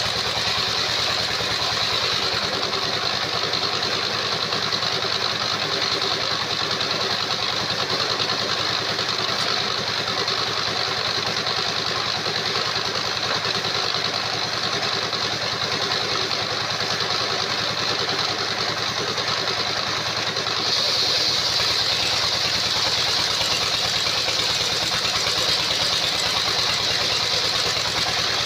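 Engine-driven circular-saw sawmill running steadily, with an engine beat underneath and a high saw whine on top. It grows a little louder and the whine stronger about three quarters of the way through.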